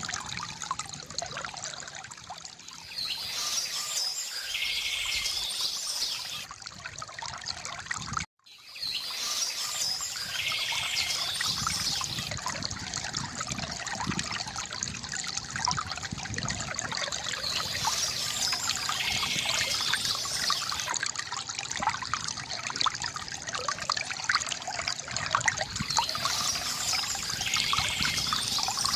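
Water trickling and splashing steadily from a bamboo fountain, with birds chirping every several seconds. The sound cuts out briefly about eight seconds in.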